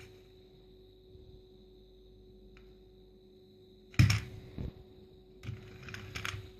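Quiet room, then a sharp knock of a plastic toy car being handled, about four seconds in, followed by a few lighter clicks.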